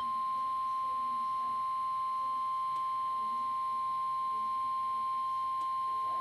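NOAA Weather Radio warning alarm tone: a single steady 1050 Hz tone that comes on suddenly and holds without change, sounded ahead of a severe thunderstorm warning.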